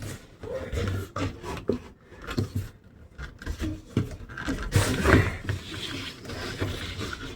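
Door hardware being worked into a metal door by hand: irregular clicks and knocks with scraping and rubbing, busiest about five seconds in, as a tight-fitting part is forced into place.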